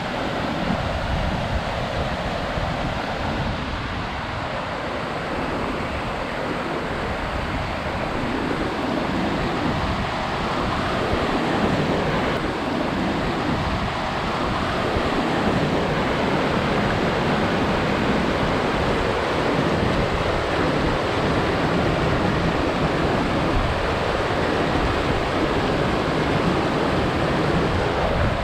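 Mountain creek water rushing steadily over rocks, a loud, even rush that swells slightly a few seconds in, with wind buffeting the microphone.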